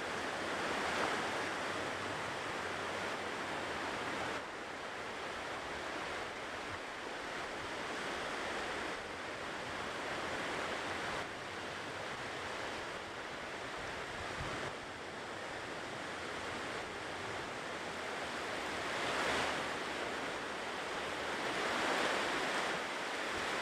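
Ocean surf washing onto a shore: a continuous wash of breaking waves that swells louder a few times as larger waves come in.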